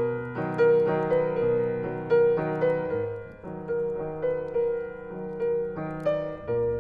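Music: a piano or electric piano playing a gentle melody of struck notes, about two to three a second, over held low notes.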